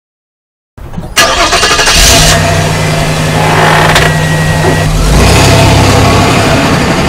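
Car engine sound effect starting about a second in and then running loudly, its note changing about five seconds in.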